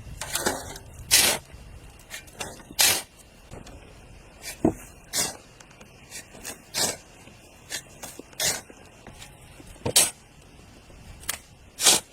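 Short swishing strokes repeated at an uneven pace, about one a second.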